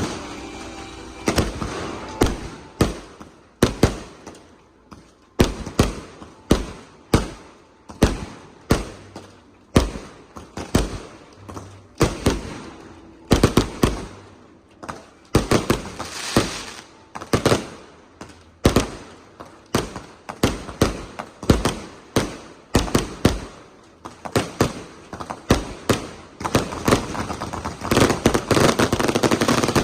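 Small consumer fireworks going off: sharp bangs about once a second, each with a short trailing crackle, building into a dense, continuous crackling over the last few seconds.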